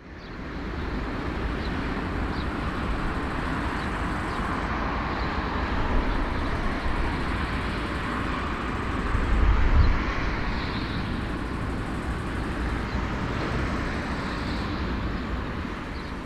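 Steady noise of aircraft engines with a deep rumble, swelling briefly about ten seconds in.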